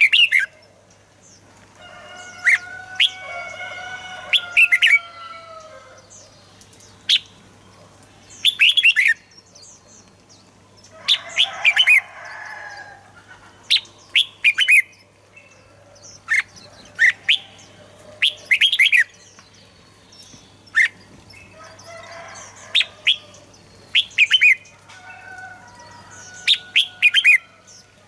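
Red-whiskered bulbul singing: loud clusters of short, sharp whistled notes every second or two, with softer, gliding warbled phrases in between. A faint steady low hum lies underneath.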